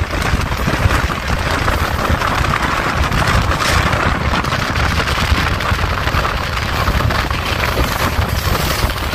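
Passenger express train running at speed: a steady rumble of wheels and carriage with gusty wind noise buffeting the microphone.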